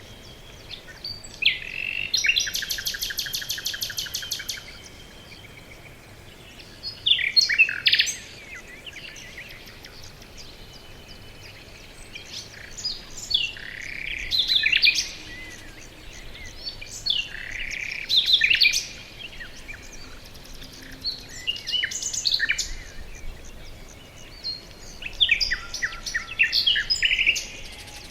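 Songbirds singing: a rapid trill of many quick notes about two seconds in, then short chirping phrases every few seconds.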